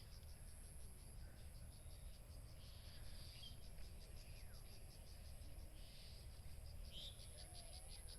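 Insects chirping in rapid, even pulses with a steady high-pitched whine, faint and quiet, over a low rumble. A few faint bird chirps come through now and then.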